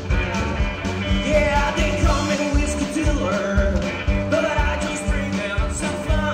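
A live rock trio playing: a steady, regular drum beat and a bass line, with guitar and a wavering sung or lead melody line over them.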